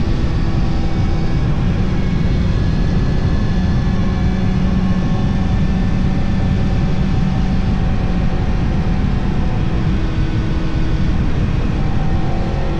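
Yamaha R1 inline-four motorcycle engine running at a steady mid-range speed under way, its note holding nearly level, over heavy wind and road rumble on the onboard microphone.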